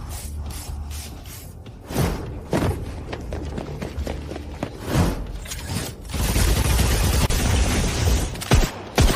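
Battle sound effects over background music: a string of booms and impacts, then a long rushing blast from about six seconds in, ending in two sharp hits.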